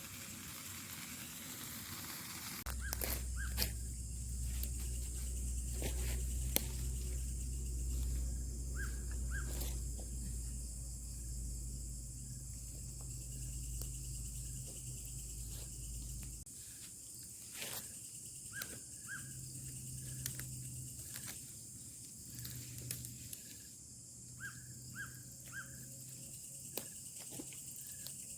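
Outdoor forest ambience: a steady high hiss under short, repeated bird chirps and scattered light clicks. A low rumble starts about three seconds in and drops away just past halfway, lingering faintly after.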